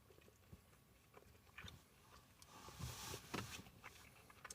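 A person faintly chewing breaded chicken fries close to the microphone, with small mouth clicks and a louder crunchy burst about three seconds in.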